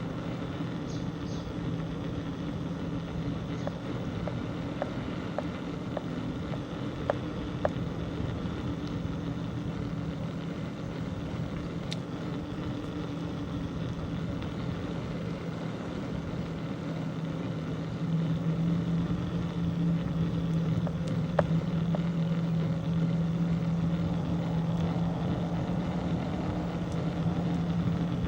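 A steady motor hum that grows louder about eighteen seconds in, with a few faint light clicks.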